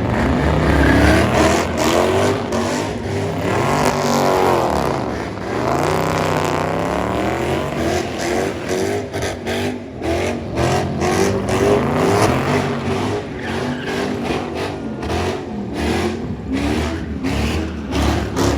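A car engine being revved hard over and over, its pitch climbing and falling in repeated sweeps as in a burnout or drift run. Through the second half comes a run of sharp cracks.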